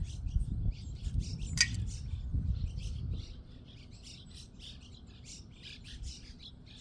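Finches chirping rapidly, many short high calls overlapping throughout, with a single sharp click about one and a half seconds in. A low rumble sits under the first half and then drops away.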